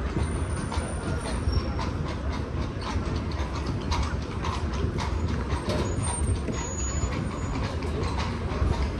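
Horse-drawn carriage on the move: the wheels rumble and rattle steadily, with an irregular run of clattering hoof and wheel knocks.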